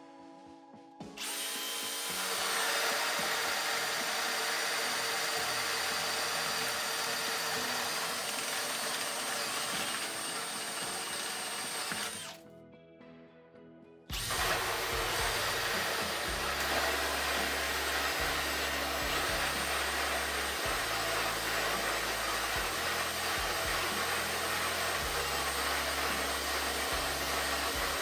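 Cordless drill driver running steadily under load with a high motor whine, stopping about twelve seconds in and starting again about two seconds later.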